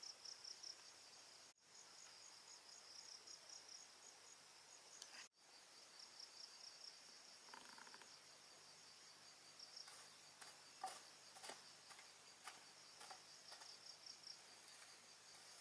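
Faint insect chorus: a high, pulsing trill that repeats steadily, broken off by two short silent gaps about one and a half and five seconds in. Scattered light clicks and knocks come through in the second half.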